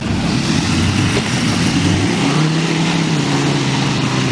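A heavy vehicle's engine running loud and steady, starting abruptly, its pitch rising slightly about halfway through.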